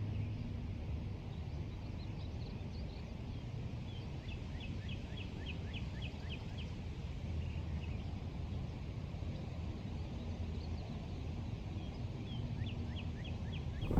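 A songbird singing trains of quick downslurred whistled notes, about four a second, three times over, against a steady low rumble of outdoor background noise.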